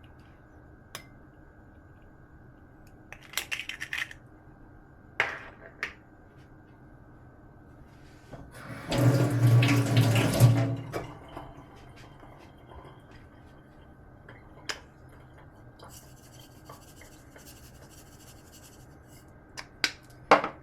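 Kitchen tap running into the sink for about two seconds midway, between scattered short clicks and knocks of kitchen handling.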